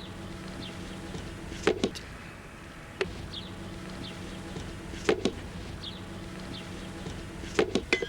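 Sharp knocks, struck singly or in quick pairs every couple of seconds, with a short flurry of them near the end, typical of hand tools striking wood. Short, high bird chirps come between the blows.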